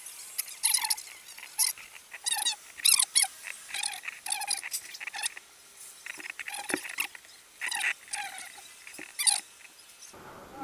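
A series of short, high-pitched animal calls or yelps, repeated irregularly many times.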